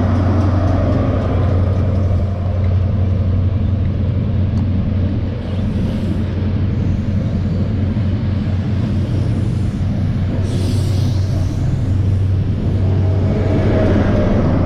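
Diesel train's engines running steadily with a deep rumble. About two-thirds of the way through comes a short hiss of air.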